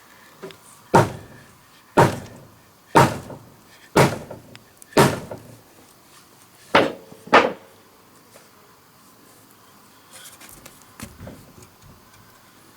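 Seven heavy blows on timber, five about a second apart and then two in quick succession, each ringing briefly, followed by faint light knocks.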